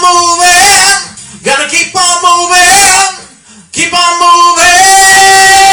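Singing: a voice on drawn-out sung notes in short phrases, the last one held steady for over a second near the end.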